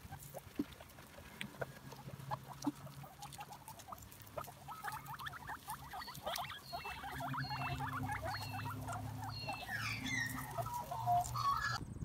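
Guinea pigs squeaking and chirping while grazing, amid a steady patter of short clicks and rustles. The squeaks grow thicker and louder over a low steady hum in the second half.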